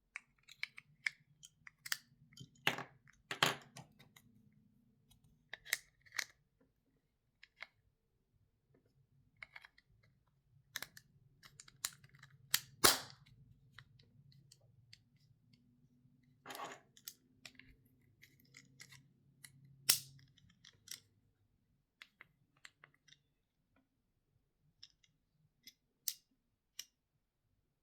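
Irregular sharp clicks and snaps of a plastic smart key fob being handled by hand as its case is opened and closed around a coin-cell battery. The loudest snaps come about halfway through and again about two-thirds of the way in.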